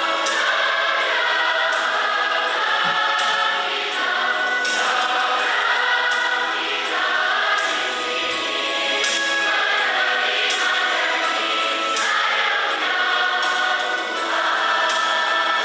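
A church congregation singing together in several-part harmony, with held notes that change every second or so.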